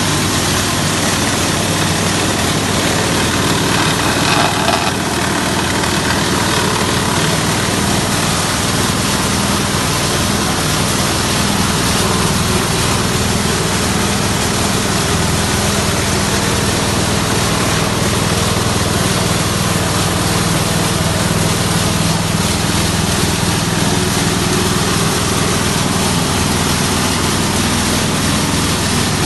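Aipower 6.5 hp single-cylinder petrol engine running steadily, driving a coconut grating and milk-pressing machine, with a brief louder burst of noise about four seconds in.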